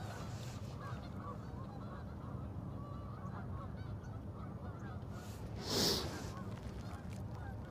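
Outdoor ambience: many short honking calls over a steady low rumble, with a brief loud hiss about six seconds in.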